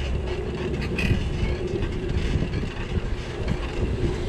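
Steady low rumble with irregular rattling: street noise of a bicycle ride through the city, with rail-like clatter that may be the bike on rough pavement or a passing tram.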